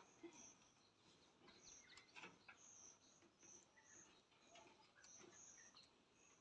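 Near silence, with faint, short, high-pitched bird chirps recurring every half second or so and a few soft knocks.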